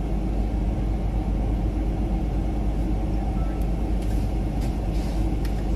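Steady low rumble of a car's engine idling, heard from inside the cabin, with a few faint clicks in the second half.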